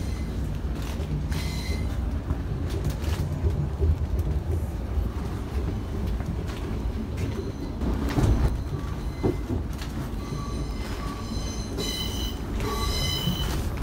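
Passenger train running, heard from inside the carriage: a steady low rumble, with a knock about eight seconds in and several short, high metallic squeals over the last few seconds.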